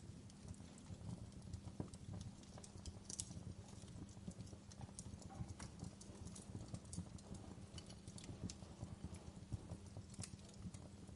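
Wood fire burning in a fireplace: a steady low rumble of the flames with irregular sharp crackles and pops from the burning logs, a couple of louder pops standing out.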